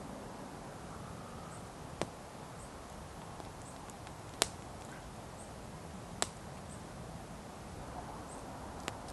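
Wood fire crackling: a few sharp, widely spaced pops from the burning wood, about four, the second the loudest, over a steady hiss.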